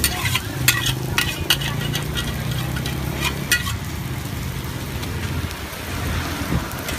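Food sizzling on a hot pan or griddle, with several sharp metallic clicks and taps of a cooking utensil in the first few seconds, over a steady low hum.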